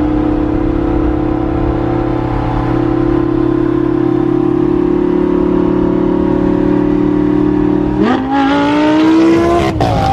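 A car engine running at a steady, fairly high speed, then revving up sharply about eight seconds in and dropping back just before the end.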